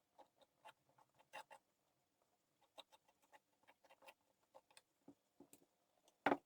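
Palette knife scraping and tapping as texture paste is spread through a stencil: faint, irregular small scrapes and clicks, with one sharper knock near the end.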